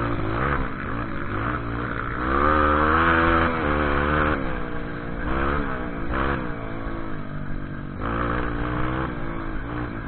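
A vehicle engine revving up and down again and again, its pitch rising and falling every second or so, as it works along an off-road trail.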